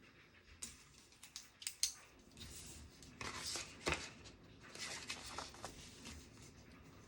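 Desk-top handling sounds: a few sharp clicks and taps in the first two seconds, then short rustling, scraping stretches like paper or books being moved and arranged.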